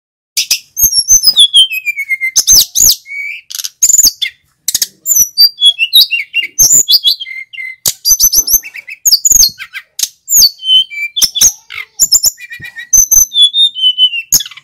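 Male sikatan gunung (mountain flycatcher) in full song: a fast, varied run of high chirps, trills and whistled notes that slide down in pitch, broken by brief pauses.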